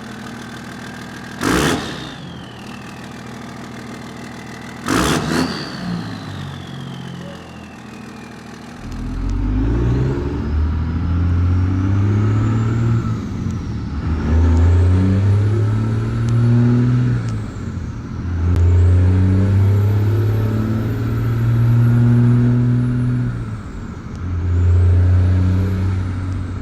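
Second-gen 2000 Dodge Ram's diesel engine running, with two sharp loud noises in the first few seconds. It is then revved up and let back down four or five times, a high turbo whistle climbing and falling with each rev.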